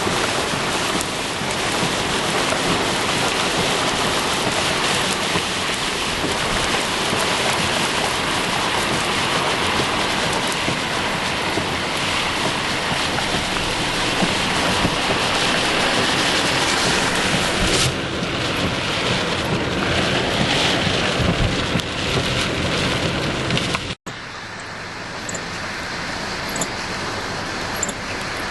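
Steady rush of heavy rain and wind noise. Near the end it cuts out for an instant, then carries on quieter.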